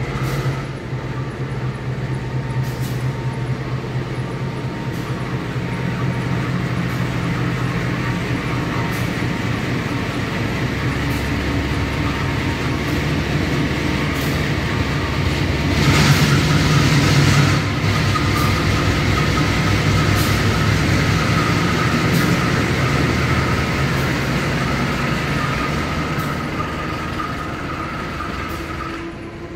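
Fuel train of Pertamina tank wagons rolling past, with a steady rumble and recurring clicks of the wheels over the rail joints. About halfway through, a steady high ringing from the wheels joins in, and the sound is loudest soon after. It fades near the end as the last wagons pass.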